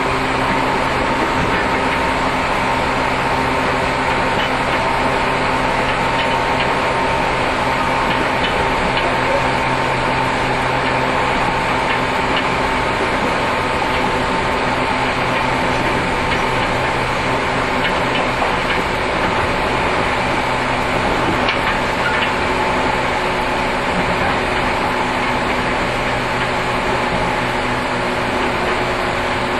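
JR 115 series electric multiple unit running, heard from on board a motor car: a steady hum of the traction motors over rail and wheel noise, with a few faint clicks.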